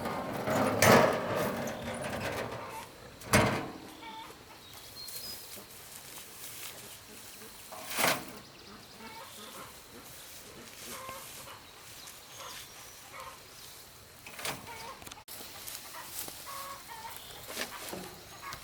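Chickens clucking in short scattered calls, with three loud sharp knocks near the start and a third of the way through.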